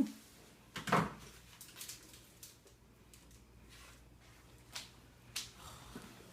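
A house door being unlocked and opened: a few sharp clicks and knocks of the lock and door, the loudest at the start and about a second in, with two lighter ones about five seconds in.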